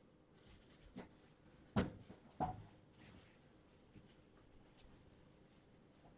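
A few soft knocks and bumps in a quiet room: a light one about a second in, then two louder ones close together around two seconds in.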